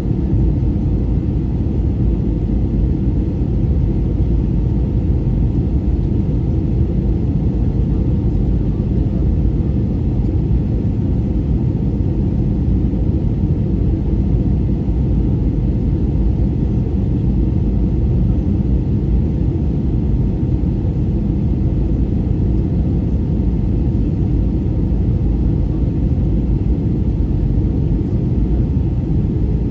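Steady low rumble of an aircraft in flight, unchanging throughout.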